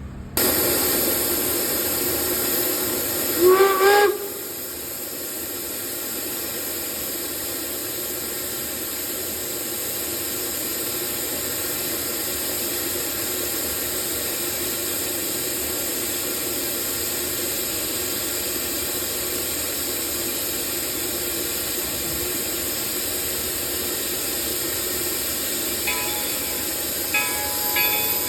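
Steam locomotive venting a loud, steady hiss of steam, with a short whistle blast about three seconds in that slides up in pitch. The hiss then settles to a steadier, lower level, and a few brief tones come and go near the end.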